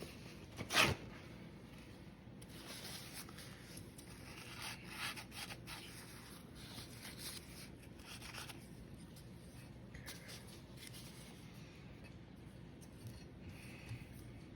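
Faint, irregular rubbing and rustling from dabbing excess paint wash off an N scale model locomotive by hand, with one sharp knock about a second in.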